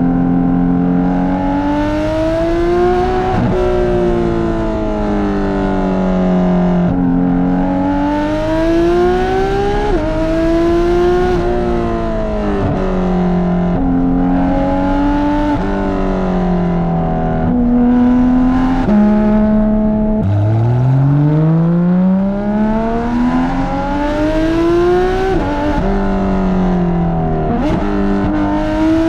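Porsche 991.2 GT3 RS's naturally aspirated flat-six with aftermarket headers and straight-through exhaust pipe, pulling hard through the gears. The exhaust note climbs in pitch under acceleration and drops sharply at each shift, easing back down between pulls, several times over.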